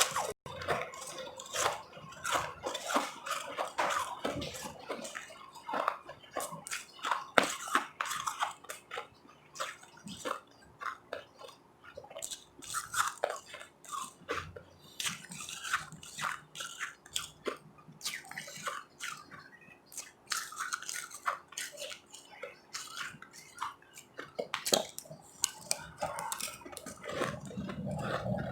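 A person biting and chewing ice close to the microphone: dense, irregular crunches and crackles, with a few quieter moments between bites.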